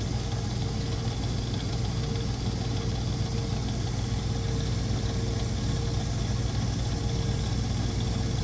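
Electric motor of a shoe-repair finishing machine running steadily, a low hum with a faint steady whine above it.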